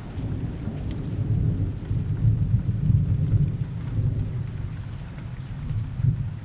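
Rolling thunder over steady rain: a low rumble that swells to its loudest two to three seconds in and eases off, with a shorter swell near the end.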